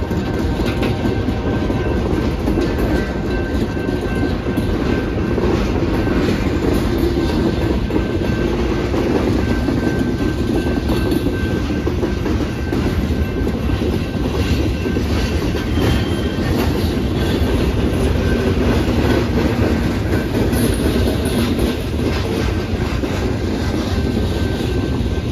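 Loaded rock hopper cars of a freight train rolling past, a steady rumble with repeated clicks of steel wheels over the rail joints.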